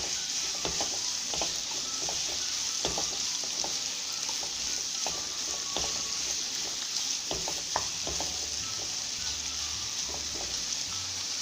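Sliced onions sizzling in hot coconut oil in a kadai, with a steady hiss, being stirred so that the spatula scrapes and taps the pan now and then. The onions are frying down toward golden brown.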